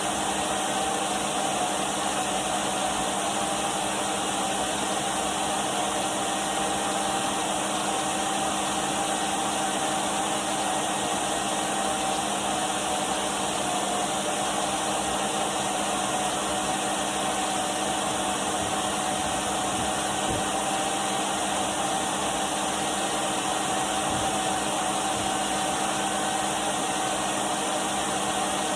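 Numatic Henry cylinder vacuum cleaner running steadily: a continuous rushing whir with a constant motor whine.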